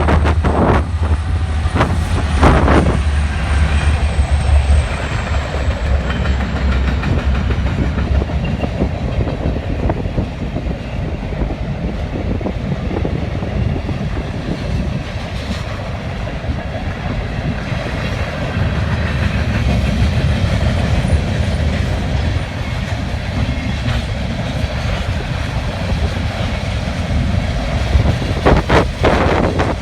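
Norfolk Southern mixed freight train rolling past, a steady rumble with a clickety-clack of wheels over rail joints. Gusty wind buffets the microphone, most heavily near the start and end.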